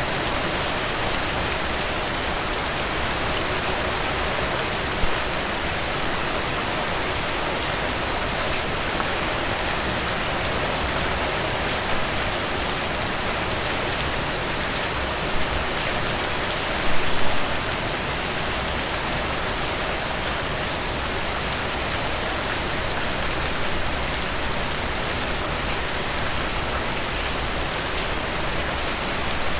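Heavy rain falling steadily, an even hiss of drops on surfaces, with a few brief louder spatters, the strongest about seventeen seconds in.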